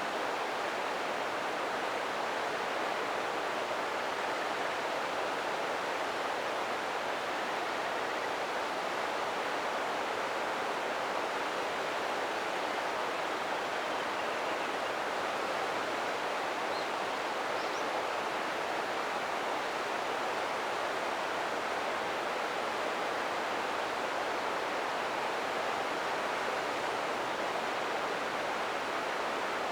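Steady rush of river water flowing over rocks, an even noise with no change.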